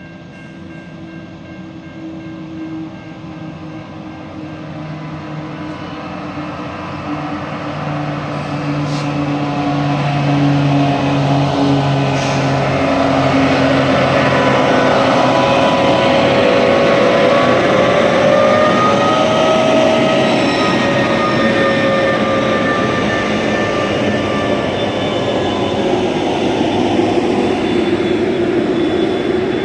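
Diesel freight locomotive approaching and passing, growing steadily louder: a low engine drone at first, then the heavy running noise of the train with higher whining tones that waver in pitch through the middle.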